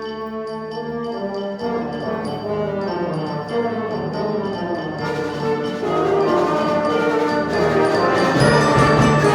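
Live concert wind band playing sustained chords, the brass prominent, building steadily louder, with percussion strokes joining near the end.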